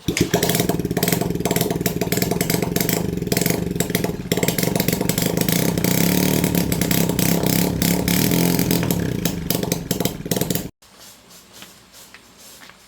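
Small 110cc motorbike engine running with a fast, even firing beat, stopping abruptly about eleven seconds in.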